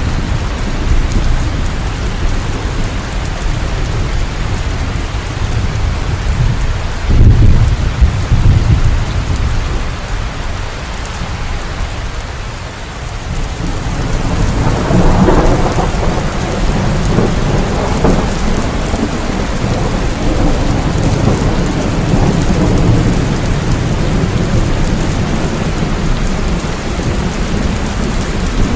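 Steady heavy rain with thunder. A loud low rumble comes about seven seconds in, and a longer rolling rumble builds a little before halfway and dies away over several seconds.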